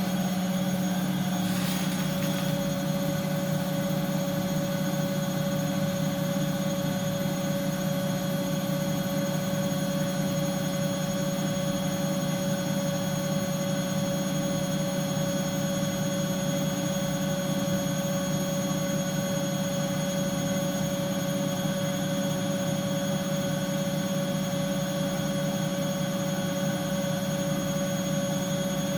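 Bosch washing machine running: a steady hum with a high motor whine over it, unchanging throughout.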